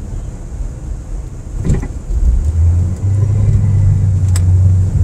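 Car engine and road noise heard from inside the cabin, the low drone growing louder and steadier from about two and a half seconds in as the car speeds up. There is a short click near the end.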